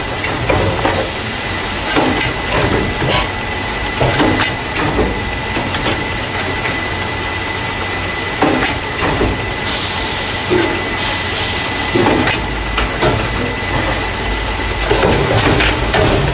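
Carton caser, the machine that loads paper juice or milk cartons into plastic crates, running steadily: a constant machine noise with a thin high whine, irregular clacks and knocks of the mechanism about once a second, and short hisses, the loudest about ten seconds in.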